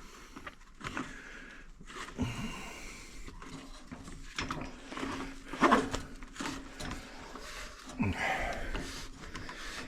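Quiet handling noises: scattered knocks, clicks and rustling as a work light is hung back up and handled.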